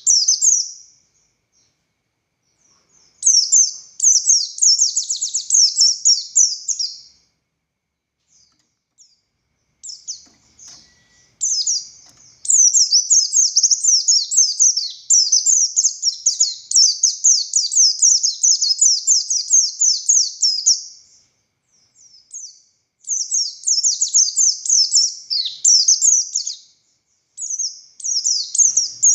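Buxtoni white-eye (pleci buxtoni) singing high-pitched, fast twittering phrases in bursts of a few seconds. The longest phrase runs about eight seconds through the middle, and there are pauses of a second or two between phrases.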